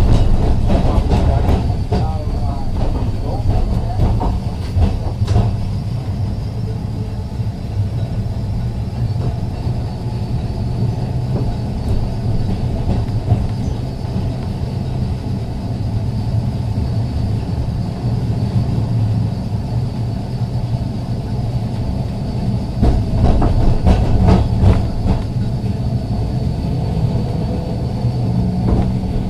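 Ex-Liverpool Corporation electric tram 869 running along the track: a steady low hum with a faint high whine, and a cluster of clacks from the wheels about twenty-three seconds in.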